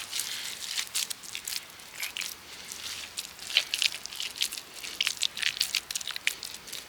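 Irregular crunching and crackling, many short sharp snaps a second.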